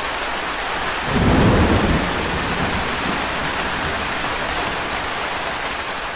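Steady heavy rain with a thunderclap about a second in that rumbles on low beneath the rain.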